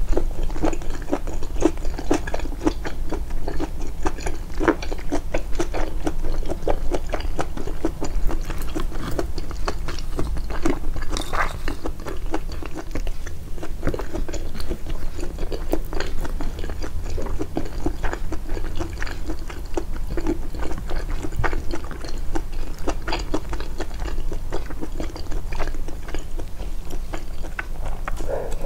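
Close-miked, amplified chewing of a meal of mutton, rice and vegetables: a continuous stream of wet clicks and smacks from the mouth, with some crunches.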